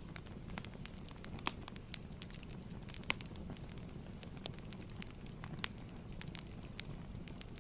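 Wood fire crackling in a fireplace: a steady low rumble of flames with sharp, irregular pops, two of them louder, about a second and a half and three seconds in.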